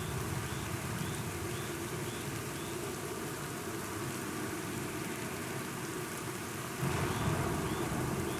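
Steady rain with a low rolling rumble of thunder underneath. About seven seconds in, the rumble swells louder.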